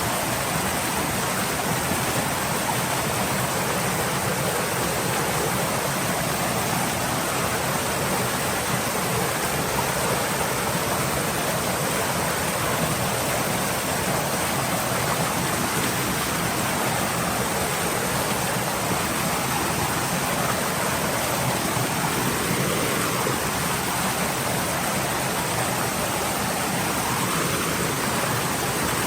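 Stream water flowing steadily, an even rushing hiss with no separate splashes or changes.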